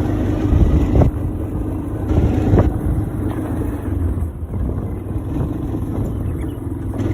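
Quad bike engine running steadily while riding, with wind on the microphone and a few knocks about one and two and a half seconds in.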